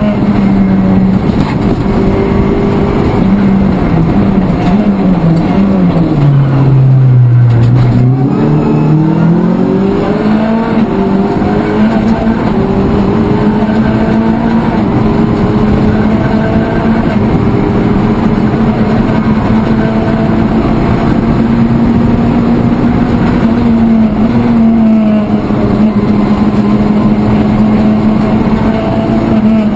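Rally car engine heard from inside the cabin, held at high revs. About five seconds in, the revs step down through downshifts to a low note for a slow corner, then climb back up and hold high again.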